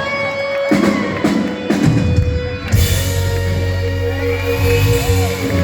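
Live rock band playing: drum hits, then a cymbal crash about three seconds in over a held low bass and guitar chord.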